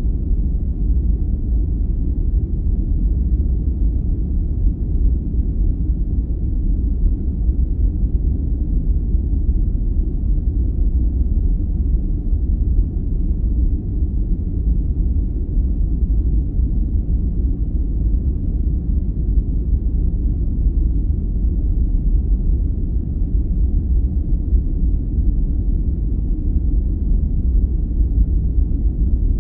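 Steady, unchanging deep white noise, with nearly all its weight low in the bass and little in the high range.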